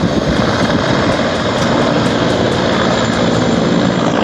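Mil Mi-24 attack helicopter flying past low, its twin turboshaft engines and main rotor making a loud, steady noise.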